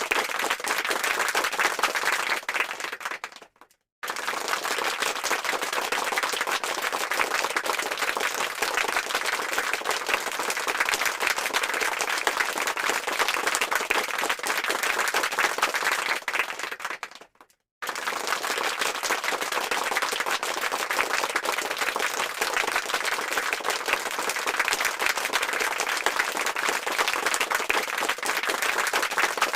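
Crowd applause, many hands clapping densely. It fades out a few seconds in, stops briefly and starts again abruptly, then does the same once more around the middle.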